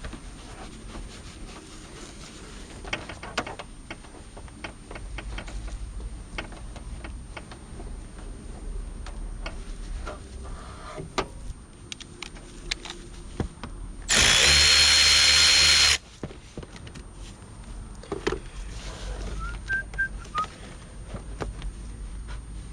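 Scattered clicks and knocks of hand tools and parts being handled, then a power tool runs in one loud burst of about two seconds a little past the middle.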